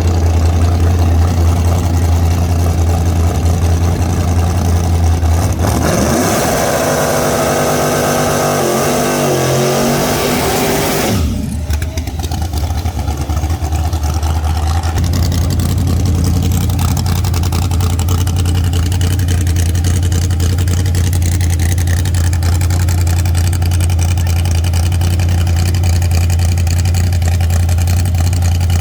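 Car engines with a steady low rumble. About six seconds in, one engine revs up hard, its pitch climbing for about five seconds before cutting off suddenly.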